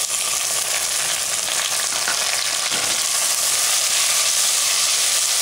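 Chopped tomatoes sizzling in hot oil with fried onions in a stainless steel pot, stirred with a perforated steel ladle: a loud, steady sizzle.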